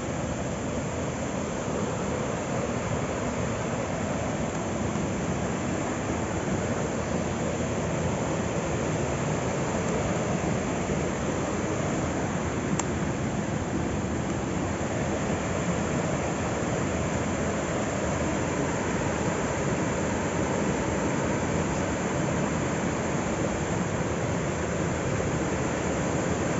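Steady rush of a waterfall's falling water, even and unbroken, with a single small click about halfway through.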